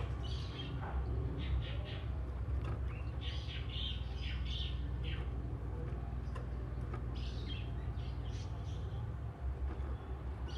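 Oriental magpie-robin (kacer) singing in bursts of short, varied whistled phrases, over a steady low rumble.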